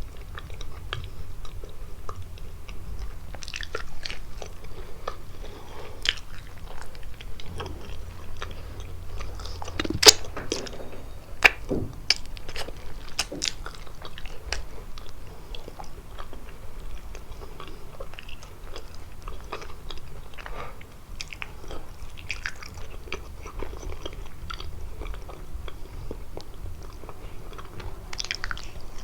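Close-miked chewing and biting of kalaj pastry, a steady run of wet mouth clicks and smacks, with two sharper, louder clicks about ten seconds in.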